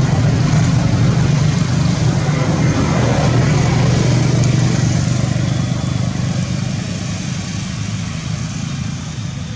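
A motor engine running steadily, dying away gradually over the last few seconds.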